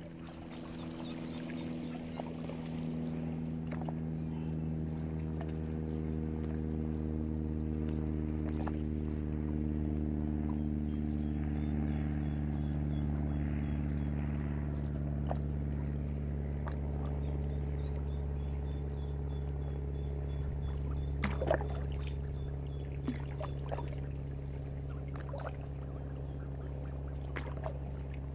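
Motorboat engine running at low speed, a steady droning hum that swells over the first few seconds, with a few light knocks and clicks over it.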